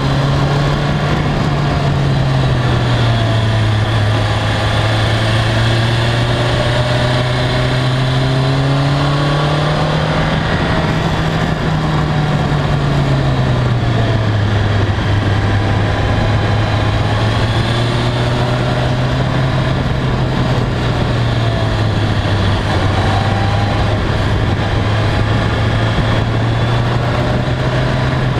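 BMW K1300R's inline-four engine running at cruising revs, its pitch rising and falling gently with the throttle, over a steady rush of wind and road noise. Revs climb a little about ten seconds in and drop back a few seconds later.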